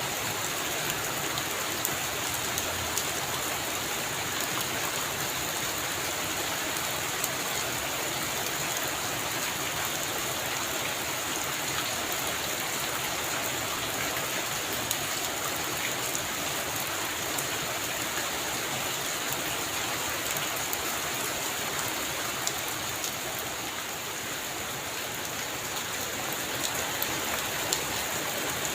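Heavy rain falling steadily on a roof, a dense even hiss with many small drop ticks, easing slightly for a moment about three quarters of the way through.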